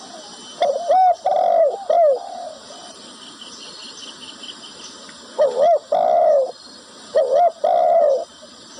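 Zebra dove (perkutut) cooing in three bouts of quick, arched coo notes, each bout a second or so long.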